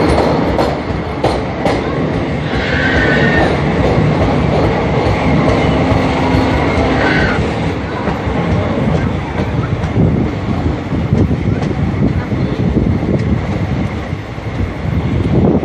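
Train running along the track: a steady, loud rumble of wheels on the rails.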